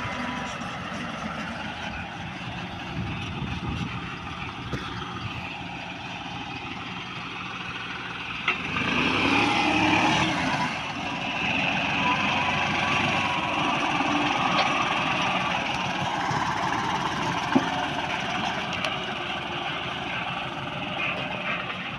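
New Holland 5630 4WD tractor's diesel engine running steadily, growing louder for about two seconds some nine seconds in.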